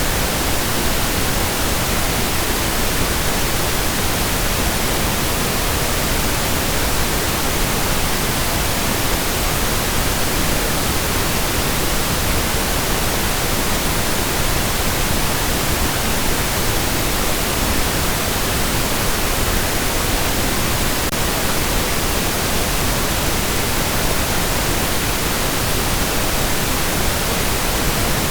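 Steady pink noise, an even hiss spread across all pitches without change.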